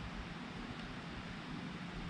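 Steady wind noise on the microphone: a fluctuating low rumble under an even hiss, with no shots.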